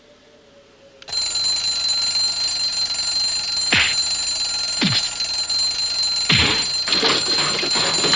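Telephone bell ringing continuously, starting about a second in, with a few quick falling swoops sounding over it.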